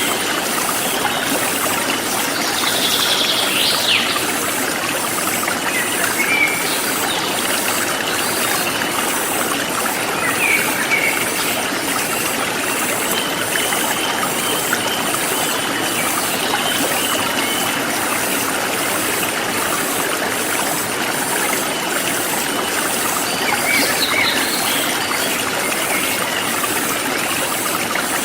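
Forest stream flowing steadily over stones, with insects keeping up an even high pulsing and a few short bird chirps, one a few seconds in, one about ten seconds in and one near the end.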